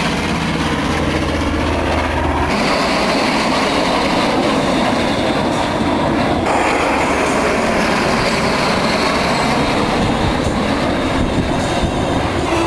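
Piston-engined warbirds, a B-25 Mitchell bomber and a P-51 Mustang, flying past with loud, steady engine noise.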